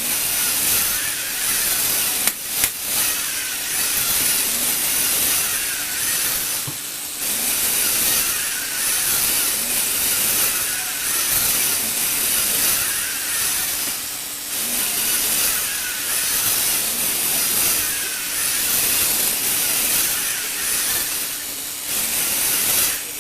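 Lego Technic electric motor and plastic gearing whirring steadily as it drives the lifter, with a few brief dips in level.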